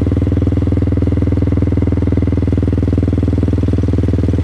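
KTM Duke 200's single-cylinder engine idling steadily, with an even, rapid pulsing beat.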